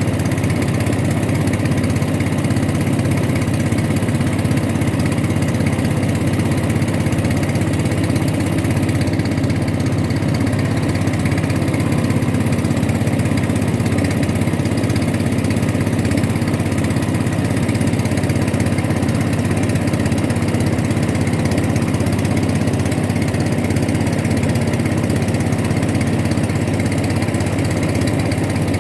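Boat engine running steadily at an even speed, a constant drone with no change in pitch or level.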